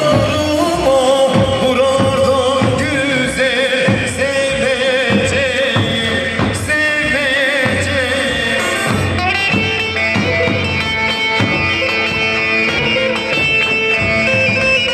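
Live halay folk dance music: a wavering melody line with singing over a steady, regular drum beat.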